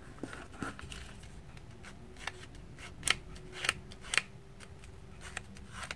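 Sheet of paper being handled and folded by hand, with soft rustling and a few sharper crinkles and creasing strokes, the loudest about three to four seconds in.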